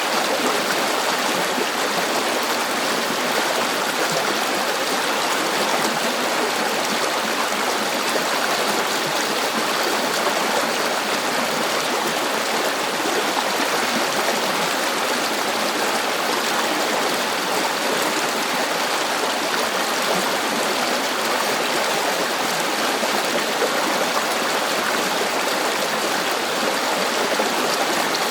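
River water flowing and rushing over rocks in a steady, unbroken wash.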